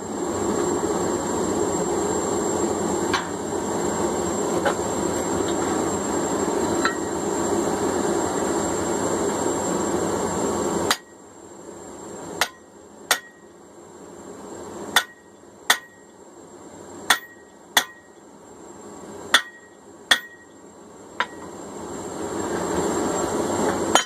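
A steady rushing noise from the forge running, with a few faint ticks, cuts off suddenly about eleven seconds in. Then come about nine ringing hammer blows on hot steel, mostly in pairs, as a drift is driven through the eye of a forged cross peen hammer head.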